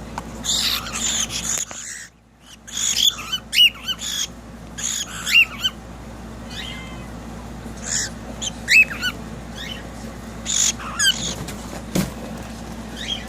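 Pet cockatiels calling in repeated bursts: harsh screeches mixed with short whistled notes that rise and fall.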